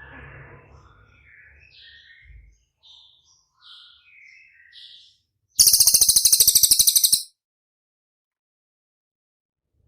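Songbird song used as tutoring material for a murai batu: a run of short, high chirped and whistled notes, then a much louder, very fast buzzing rattle, a 'rol speed' trill, lasting about a second and a half.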